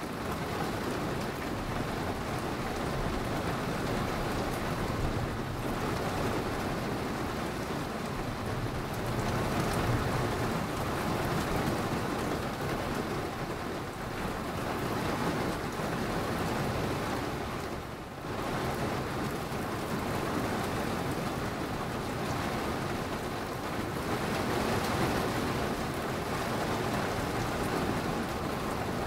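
Thunderstorm recording: steady rain falling, with low rumbles of thunder that swell and fade underneath.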